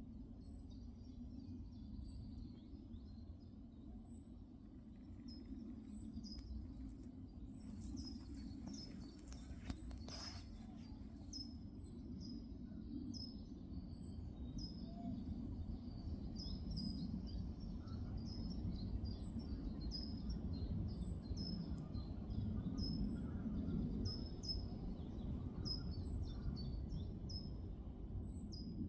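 Small birds calling outdoors: one gives a thin, very high note sliding down, repeated about once every second or so, while others add short chirps. A steady low rumble of background noise sits under the calls and grows slightly louder in the second half.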